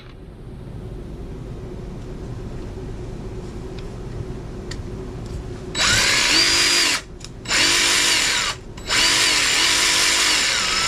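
DeWalt DCS331B 20V MAX cordless jigsaw running with no cut. It runs quietly at low trigger speed for about six seconds, then is pulled to full speed three times in short bursts. Each burst spins up with a rising whine and winds down when the trigger is released.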